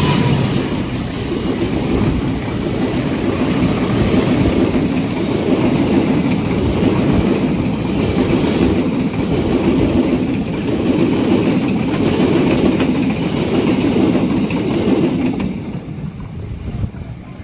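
A train's carriages roll past with a continuous clatter of wheels on the rails. Near the end it fades as the train moves away.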